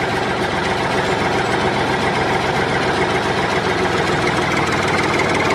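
Small engine of a home-built mini tractor running steadily, with a fast, even rattle.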